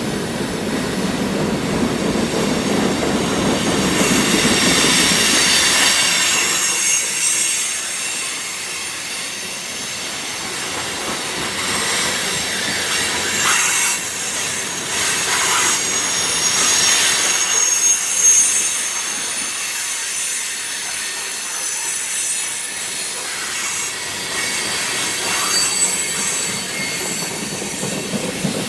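CSX manifest freight train rolling past, its cars' steel wheels giving off high, steady squealing tones. A heavy low rumble fades out about six seconds in.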